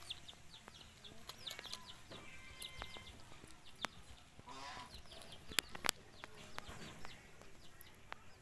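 Birds chirping in quick, repeated short high chirps, with a few sharp clicks about four, five and a half and six seconds in.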